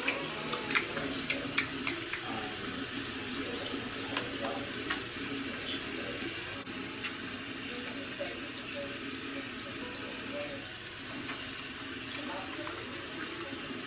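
Steady rushing noise of dust-storm wind, with scattered sharp ticks in the first five seconds.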